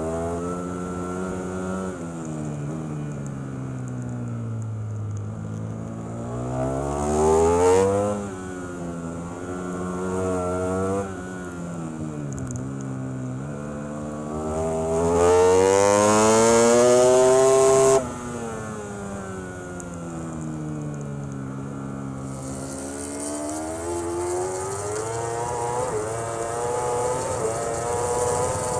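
Race superbike engine heard from onboard, revving up and down as it accelerates hard and backs off. It is loudest on two long pulls, and the second one cuts off abruptly.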